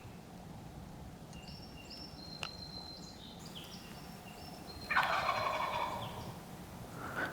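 Wild turkey tom gobbling, a loud rattling call of about a second, about five seconds in, with another loud burst right at the end. Thin, high whistled bird notes come before it.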